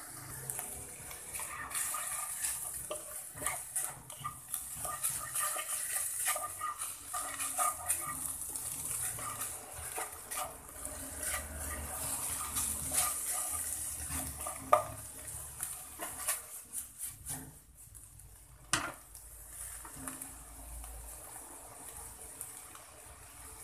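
Minced chicken breast sizzling in oil in a nonstick wok, with a wooden spatula scraping and tapping against the pan as it is stirred through the first two-thirds. The sizzle goes on steadily after the stirring stops, with one sharp tap of the spatula on the pan.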